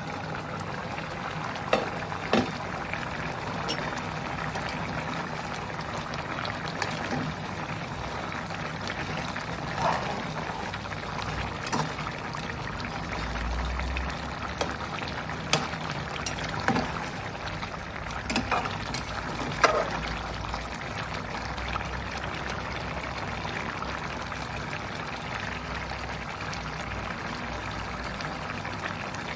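A pot of chicken curry bubbling and sizzling steadily as it cooks, with a few sharp clinks now and then.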